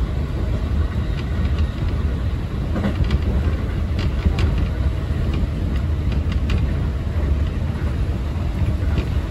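Running noise of a local electric train heard from inside the passenger car: a steady low rumble of wheels on rails, with a few faint clicks scattered through it.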